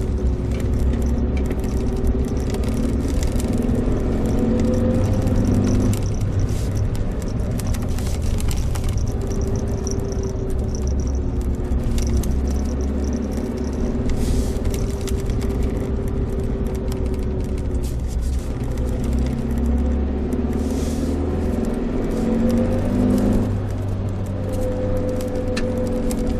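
Suzuki Jimny Sierra's engine running as it drives along, its pitch rising and falling with speed and gear changes, over a steady low road rumble.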